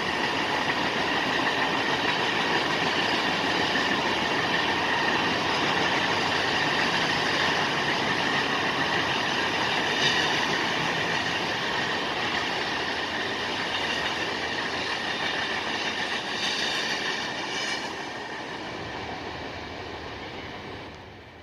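Freight train cars rolling past on the rails, a steady rumble and rattle of wheels with a faint high ringing. It fades over the last few seconds as the train moves away.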